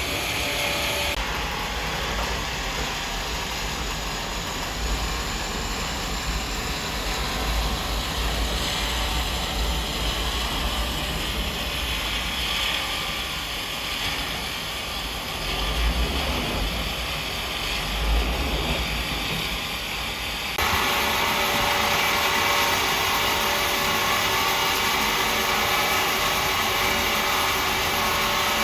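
Sawmill machinery running steadily, a loud, even mechanical noise with a deep rumble that changes abruptly about a second in and again about two-thirds of the way through.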